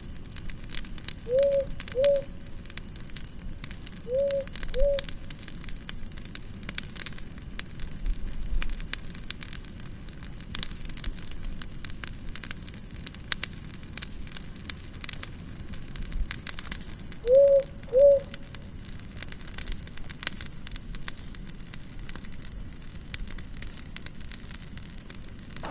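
Campfire crackling and popping. Three times, a bird gives a pair of short hooting notes over it, and near the end there is a brief faint high trill.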